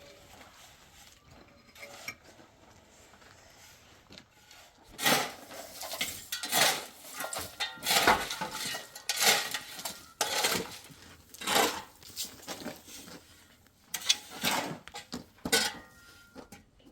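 Quiet scraping for the first few seconds, then a series of loud scraping and clinking strokes of a metal tool, about one a second, stopping shortly before the end.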